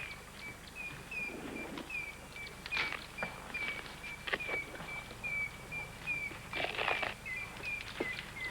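A bird repeating a short high note about three times a second, over scattered sharp cracks and crackling rustles, the loudest about three and seven seconds in.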